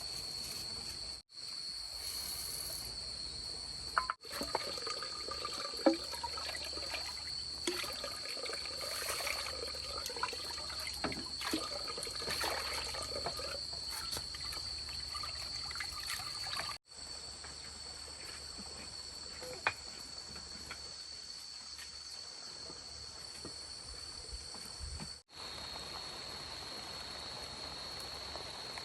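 Steady high insect trilling, with water trickling and pouring and scattered clinks and knocks mostly in the first half.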